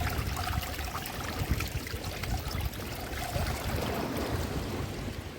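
Seawater in a bucket of live prawns sloshing and trickling, with many small ticks and splashes, over a low rumble of wind on the microphone.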